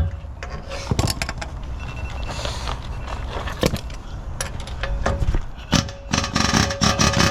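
Steel bushing being driven into a machine bore by repeated metal-on-metal strikes: scattered blows at first, then a quicker run of blows near the end.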